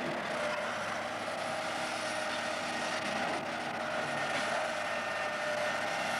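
An engine running steadily, a continuous drone with a few held tones.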